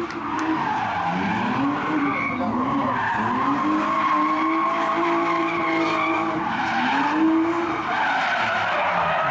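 Drift car engine held at high revs, dropping and climbing back about three times as the throttle is lifted and reapplied, over the hiss of tyres skidding.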